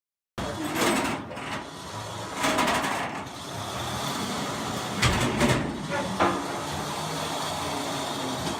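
A vehicle engine running steadily, with several loud clunks and rattles over it.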